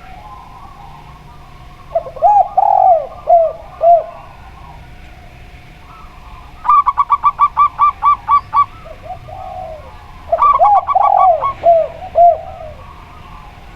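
Zebra dove and spotted dove cooing: a phrase of arched, rising-and-falling coos, then a rapid run of about ten short staccato notes, then another phrase of arched coos near the end.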